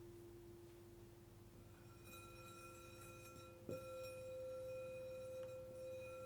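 Singing bowls ringing: a low, nearly pure bowl tone slowly dies away while a higher bowl tone with several ringing overtones swells in about two seconds in. The higher bowl is struck about three and a half seconds in and rings on, louder.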